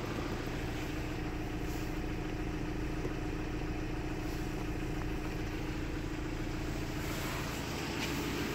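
Ford Transit's 2-litre Euro 6 diesel engine idling steadily.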